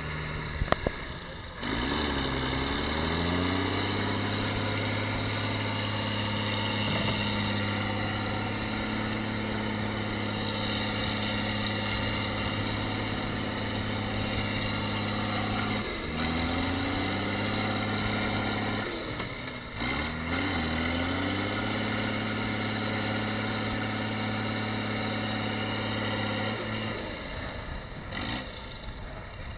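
Tractor engine running steadily under load, its revs rising several times, with a few sharp knocks just under a second in.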